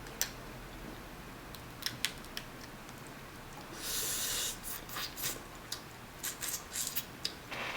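Dungeness crab shell being cracked and picked apart: scattered sharp clicks and snaps, a short hiss about four seconds in, then a quicker run of clicks near the end.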